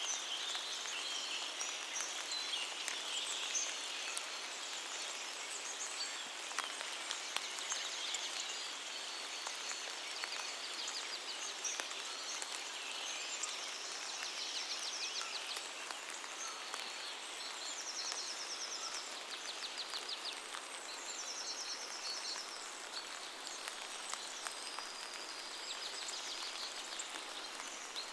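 Steady rain falling on forest foliage, with single drops ticking close by. Birds call through the rain in short rapid trills, several times in the second half.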